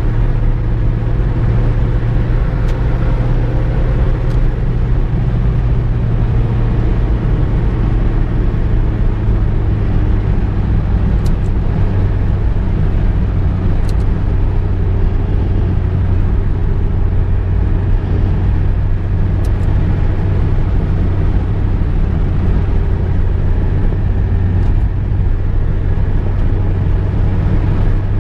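Car driving at a steady speed: a continuous low engine and road rumble that stays even throughout, with a few faint ticks now and then.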